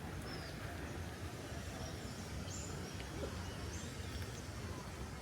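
Birds giving short, high chirps over a steady low background rumble of outdoor ambience.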